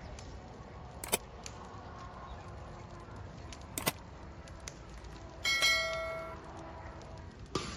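Low steady background with a few sharp clicks, and one short metallic ring with several overtones about five and a half seconds in, dying away within a second.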